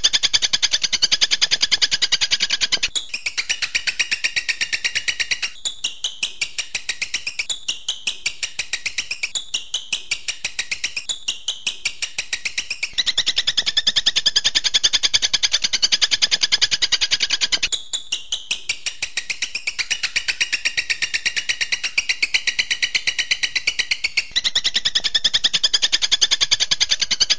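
Songbird song of the kind used as masteran training audio: rapid, evenly repeated high-pitched notes in fast 'shot' (tembakan) trills. It switches abruptly to a new phrase every few seconds.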